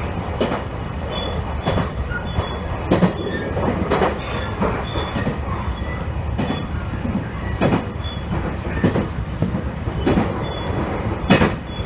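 Local train running along the line, heard from inside the car: a steady rumble of the wheels on the rails, with irregular clicks and knocks as the wheels pass over rail joints and a faint high wheel squeal now and then.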